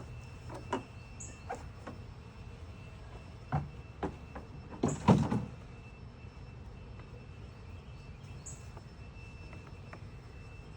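Wooden beehive cover and box knocking and scraping as they are lifted off the hive: a few short knocks in the first four seconds and a louder cluster about five seconds in.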